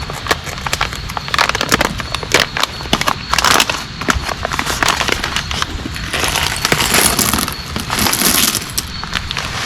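Heavy rain falling, full of dense, irregular taps and crackles over a low rumble, growing louder and hissier for a few seconds in the second half.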